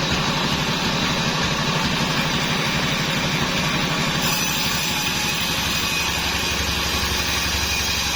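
Engine of a band sawmill running steadily with a fast even pulse.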